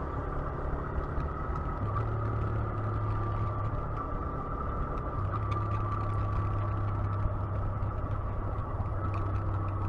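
A 125cc motorcycle engine idling steadily, its low hum stepping up and down slightly a few times, with a faint steady high tone above it.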